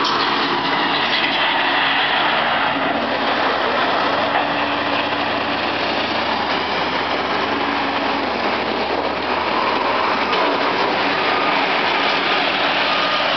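Heavy truck engine running steadily under a loud, even hiss of noise.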